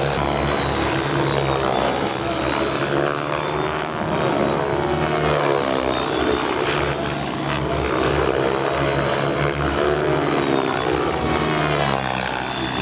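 Radio-controlled 3D helicopter in flight, its rotor and motor whine rising and falling in pitch over and over as the blades load and unload through aerobatic manoeuvres.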